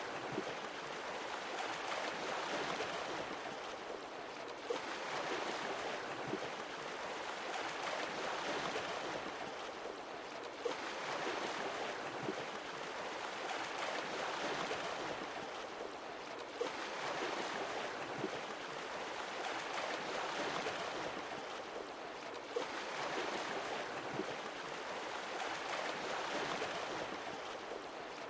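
Sea waves breaking and washing in, swelling and easing in a slow, even rhythm about every six seconds, with a brief sharp splash in most swells.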